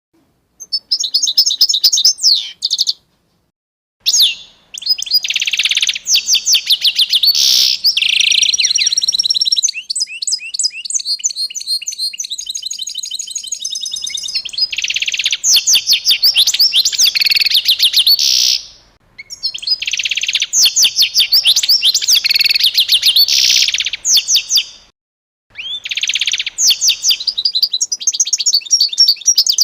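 Small songbirds chirping in rapid, high-pitched trills and twitters, in bouts broken by several brief silences.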